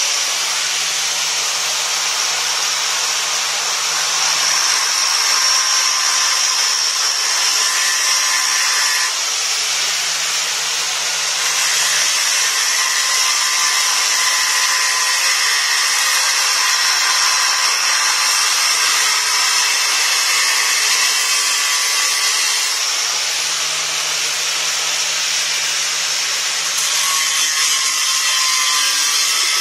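Electric power tool running continuously at speed while cutting into the hard stone of a fireplace, which the user takes for marble. It gives a steady, high-pitched whine.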